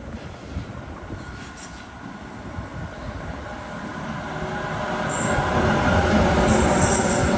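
A train approaching on the rails, its rumble growing louder from about three seconds in, with a steady whine of several tones and sharp wheel clicks and squeal near the end.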